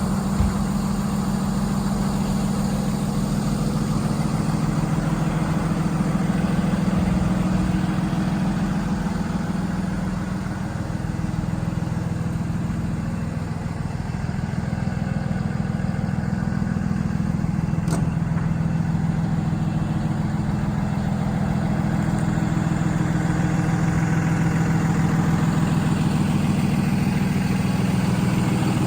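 Cummins 6.7-litre turbo diesel of a Freightliner M2 truck running steadily, with a slight dip in level midway and one faint click.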